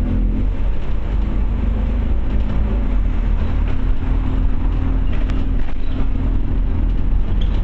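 Scania OmniCity bus's diesel engine running at a steady speed, heard from inside the bus as a continuous rumble with a steady hum.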